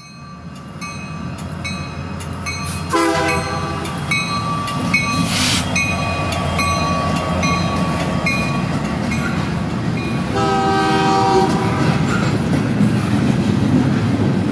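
A train running and drawing nearer, getting louder throughout, with a regular ticking about twice a second. Its horn sounds twice, briefly about three seconds in and for longer about ten seconds in.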